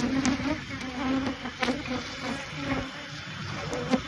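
A swarm of disturbed Africanized honeybees buzzing loudly and steadily, a defensive colony boiling out of its hive.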